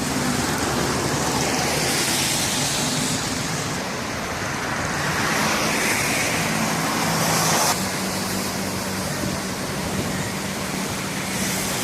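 Steady motor-vehicle engine hum under loud, broad traffic-like noise; the hum grows a little stronger about halfway through.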